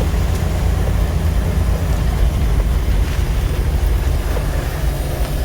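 Jeep driving: a steady low rumble of engine and road noise heard from inside the cabin.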